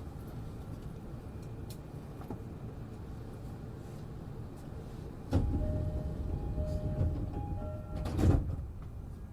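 E233-7000 series train standing at a station with a low steady hum, then about five seconds in its pneumatic sliding passenger doors open with a sudden rush of sound and a few steady chime tones, ending in a louder knock as the doors reach their stops.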